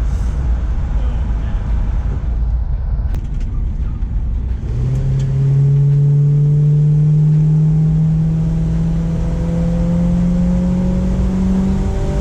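Small-block Chevy V8 on freshly installed Holley Sniper fuel injection, rumbling at a light cruise, then pulling under acceleration from about five seconds in, its note rising slowly and steadily. It runs smoothly and healthily, though it is not fast.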